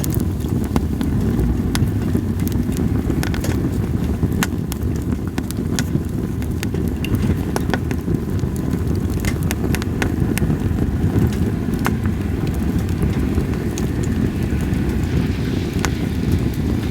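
Campfire of split sawtooth oak (kunugi) firewood crackling, with many sharp irregular pops over a steady low rumble of wind.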